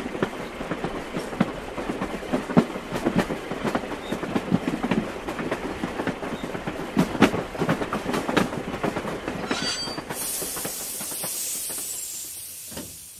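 Train sound effect: railway wheels clattering and squealing along the track. About ten seconds in, the clatter gives way to a steady high hiss that fades out near the end.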